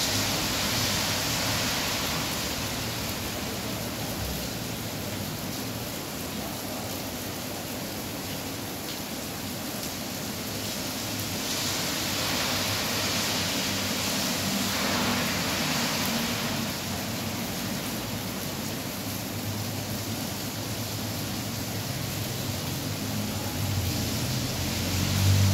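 Heavy rain pouring steadily, swelling louder a couple of times. A low engine hum from a vehicle on the road grows near the end.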